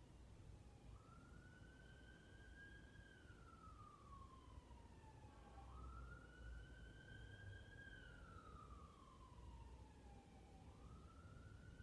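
Faint emergency-vehicle siren in wail mode: a tone that sweeps up quickly, then slides slowly down, repeating roughly every five seconds.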